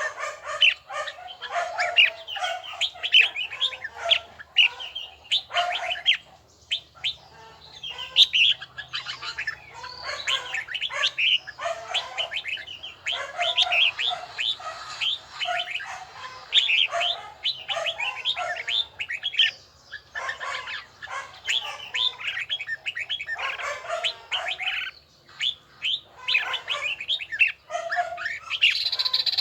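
Red-whiskered bulbul singing: runs of quick, clear whistled and chirped phrases, broken by short pauses.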